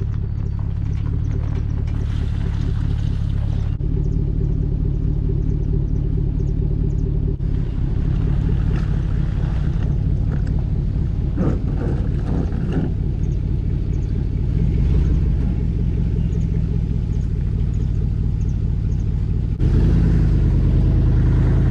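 Boat motor running steadily at a constant pitch. The sound changes abruptly a few times where clips are cut together.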